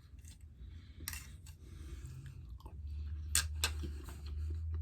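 A person chewing a mouthful of shepherd's pie close to the microphone, with soft wet mouth clicks; a low hum swells in the second half.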